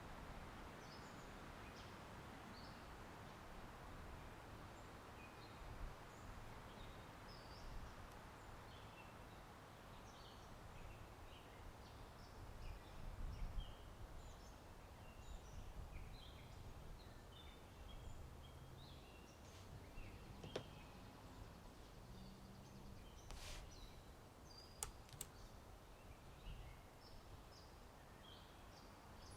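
Faint outdoor ambience: a steady wash of wind in trees, with small birds chirping and twittering on and off throughout. A few short clicks come about two thirds of the way in.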